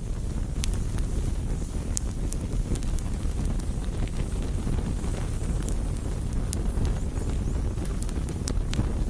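Wood campfire burning: sharp crackles and pops scattered irregularly over a steady low rumble.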